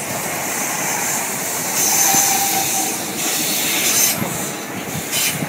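Class 455 electric multiple unit running past the platform: a steady rushing hiss of wheels on rails, with a brief faint whine about two seconds in and a couple of sharp clacks near the end.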